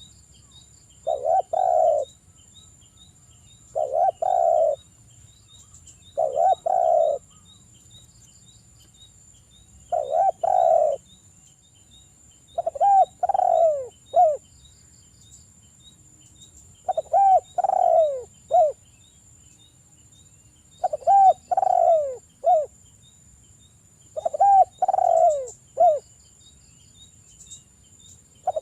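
Spotted dove (derkuku) cooing in repeated phrases every few seconds. The later phrases break into several falling notes ending in a short clipped note.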